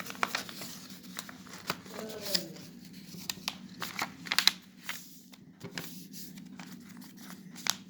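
A sheet of paper being folded and creased by hand: irregular crackles, rustles and sharp little clicks as it is pressed flat.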